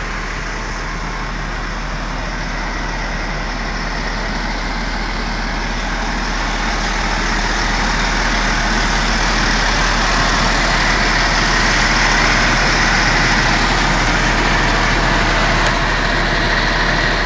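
Heavy vehicle running with steady engine and road noise, growing gradually louder.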